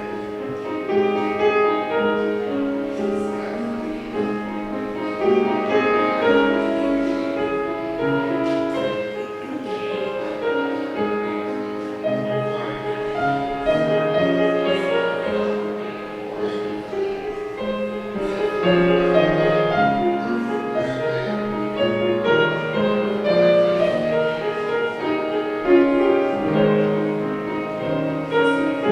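Instrumental prelude music, piano-led, with sustained notes and changing chords.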